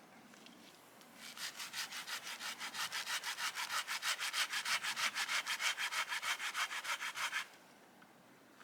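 Hand saw cutting through wood in fast, even back-and-forth strokes. It starts about a second in, grows louder and stops abruptly near the end.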